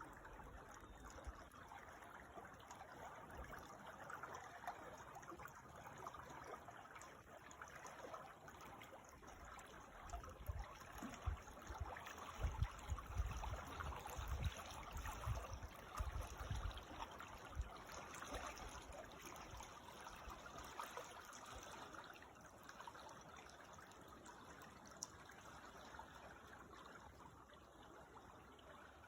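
Creek water trickling and burbling steadily, faint, with patches of low rumble in the middle.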